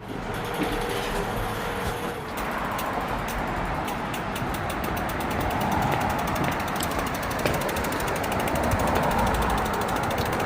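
Riding noise on a bicycle: steady wind and road rumble, with fast, even ticking from a freewheel coasting from about two seconds in.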